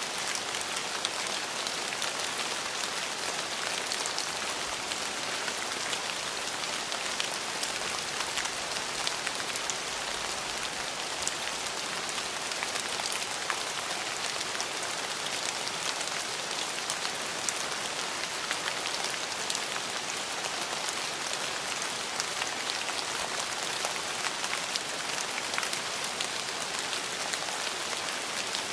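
Steady rain falling on a surface: an even hiss, with many small drop ticks all through.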